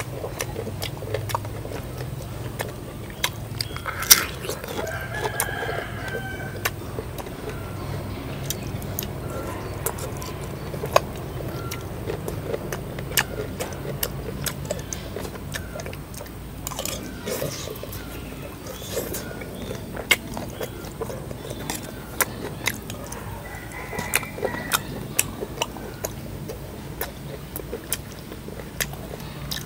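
Eating fish-sauce fried chicken tails: crunchy bites and chewing with many sharp clicks throughout. A rooster crows in the background about four seconds in and again about twenty-four seconds in.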